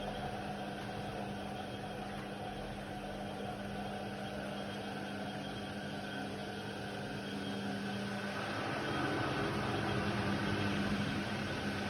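Indesit WIDL 106 washer-dryer running with a steady motor hum, growing a little louder about eight seconds in.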